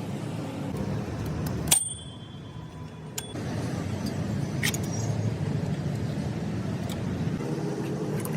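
Engine running steadily with a low hum. A sharp metallic clink that rings briefly comes a little under two seconds in. The sound is then quieter for about a second and a half until a second click, after which the steady running resumes.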